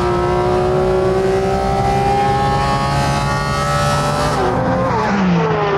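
Porsche RS naturally aspirated flat-six accelerating hard at full throttle, its note climbing steadily through a gear. About four and a half seconds in it drops in pitch at an upshift and starts to climb again.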